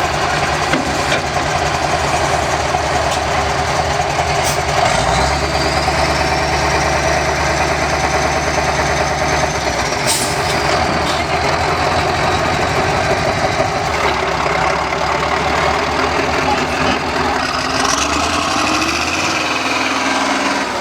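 Heavy diesel engine of a Steyr trial truck running under load, its pitch stepping up about five seconds in and the revs falling away near the end, with a faint high whine rising and falling in between.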